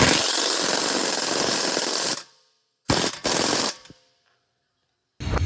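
Impact wrench hammering for about two seconds, then two short bursts, running in the bolts of a new rear suspension control arm.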